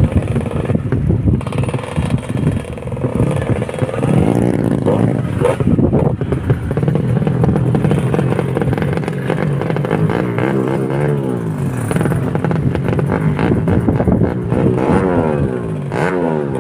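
ADMS 125 motorcycle engine running, its revs repeatedly rising and falling in short blips from about ten seconds in and again near the end.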